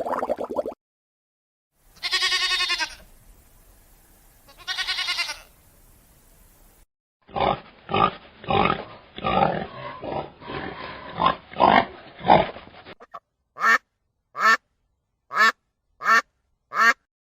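Farm animal calls one after another: two long, pitched bleating calls, then about six seconds of rapid grunting calls, then five short calls spaced evenly.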